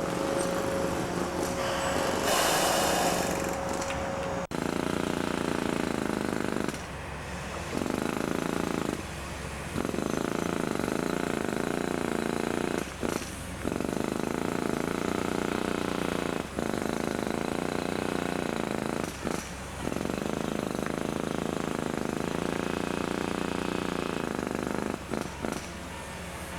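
Train at the station running with a steady low mechanical rumble. A high steady hum stops about four seconds in, and the rumble drops out briefly several times.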